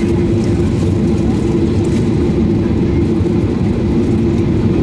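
Steady cabin rumble of a Boeing 737-800 taxiing, its CFM56-7B engines near idle, with a constant low hum running through it.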